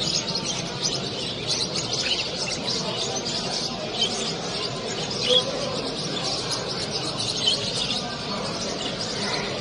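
Many caged birds chirping and singing at once: a dense, continuous chatter of short high calls, with a few louder chirps standing out now and then.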